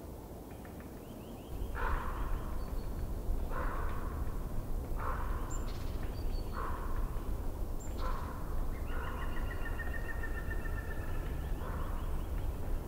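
A bird giving harsh, scratchy calls about every second and a half, then a longer rattling call near the end, with a few thin high bird notes in between, over a low rumble.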